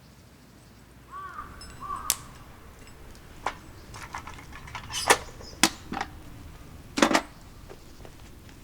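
A series of sharp clicks and knocks of hard objects striking, about five loud ones spread irregularly, after a brief squeak about a second in.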